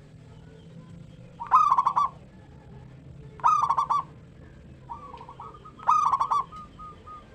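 Zebra dove (perkutut) singing: three loud, quick, stuttering cooing phrases come about two seconds apart, with fainter cooing between them.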